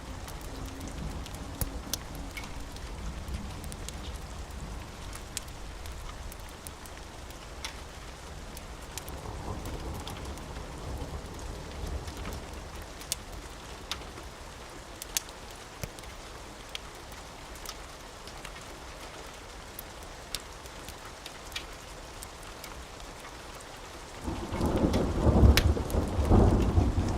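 Steady rain with scattered sharp crackles from a wood fire, and a loud rumble of thunder about three seconds before the end.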